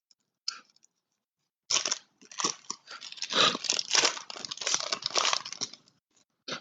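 Trading-card pack wrappers being torn open and crinkled, a dense run of crackling and tearing for about four seconds, with a short click near the end.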